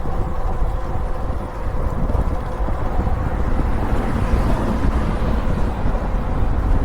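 Steady wind rushing over the microphone with road noise from an e-bike moving at about 22 mph; the rumble is strongest at the bottom and grows a little stronger partway through.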